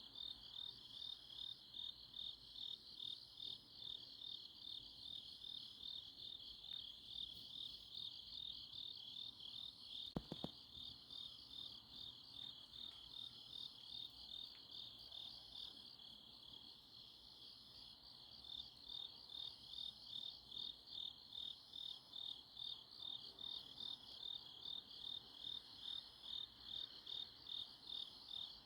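Crickets and other autumn grass insects chirping at night: a steady high-pitched pulsing trill, repeating about twice a second. A brief double knock sounds about ten seconds in.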